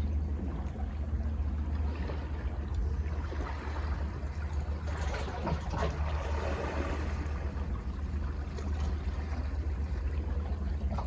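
Sea waves washing in and draining back, over a steady low rumble; a louder wave swells and fades about five seconds in.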